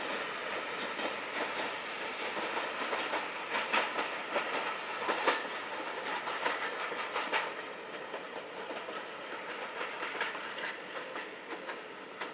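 Freight train wagons rolling past, their wheels clacking over rail joints over a steady rushing rolling noise. The clacks are loudest midway, and the sound eases off toward the end.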